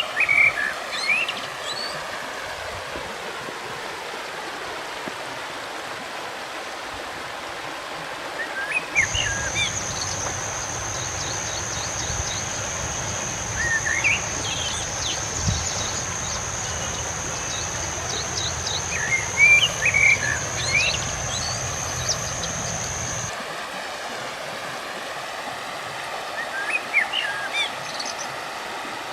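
A river flowing steadily, with small birds chirping in short spells about five times. In the middle a steady high whine sounds for about fourteen seconds.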